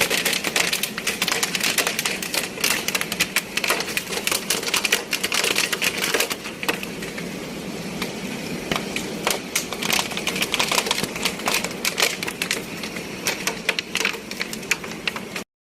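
Hail clattering densely on hard surfaces, a fast irregular rattle of impacts over the hiss of heavy rain. It cuts off abruptly near the end.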